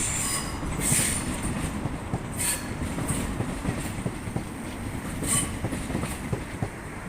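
Northern Class 769 bi-mode multiple unit passing: a steady rumble of wheels on the rails, with brief high-pitched squeals about one, two and a half and five and a half seconds in.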